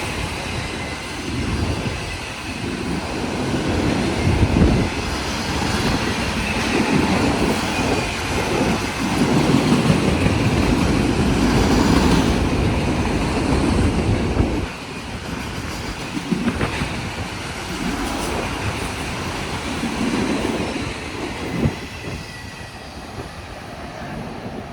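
Cars of a Union Pacific freight train rolling past, wheels clacking over the rail joints with a faint wheel squeal. Loudest in the first half, quieter from about fifteen seconds in.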